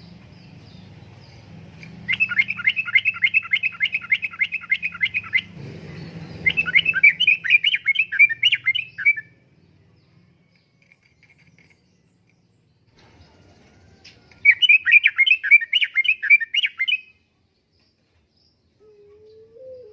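Yellow-vented bulbul (trucukan) singing in three rapid, bubbling, chattering phrases, the first two back to back and the third after a pause of about five seconds.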